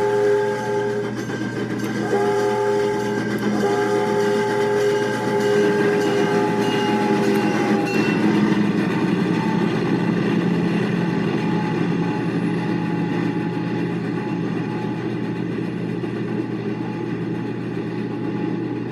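Steam locomotive 610's chime whistle blowing: the end of one blast, a short blast and then a long blast lasting about four seconds. The loud, steady rumble of the locomotive and its passenger train rolling past follows.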